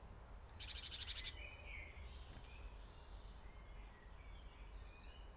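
Faint birdsong: scattered short high chirps, with a quick rapid trill about half a second in, over a low steady background rumble.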